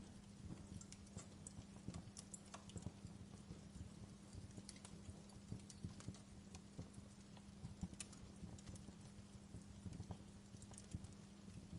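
Wood fire in a fireplace crackling: faint, irregular sharp snaps and pops, a few louder than the rest, over a steady low hum.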